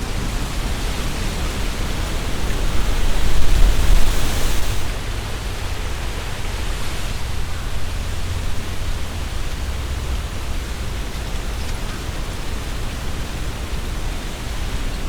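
Strong wind gusting through trees, leaves rustling and hissing, with low wind rumble on the microphone. A gust swells about two seconds in and dies down about five seconds in.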